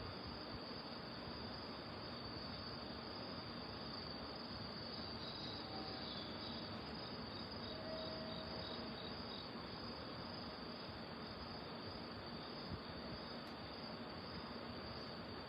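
Crickets singing, a steady high-pitched trill over even background noise.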